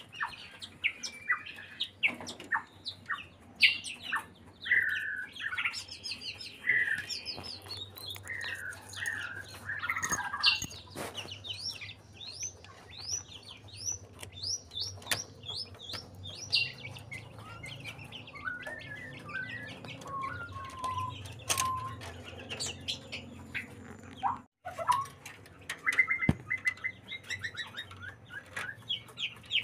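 White-rumped shama singing a long, varied song of whistled phrases and fast rising trills, with sharp clicks throughout; the song of a shama in breeding condition.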